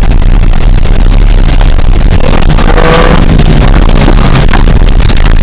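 Toyota Tercel's engine revving as the car pulls away, very loud and overloading the microphone, with a rise in pitch around the middle.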